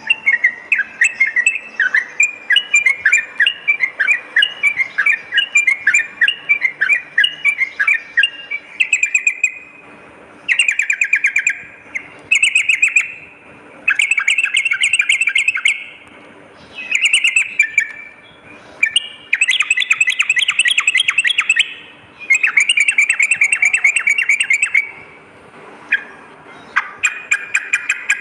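Yellow-vented bulbul (trucukan) singing: a run of quick, bubbly chirps, then repeated bursts of fast chattering trills, each a second or two long, with short pauses between.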